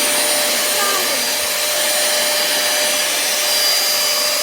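pemacom cordless handheld vacuum cleaner running steadily at full speed: a steady motor whine over rushing air.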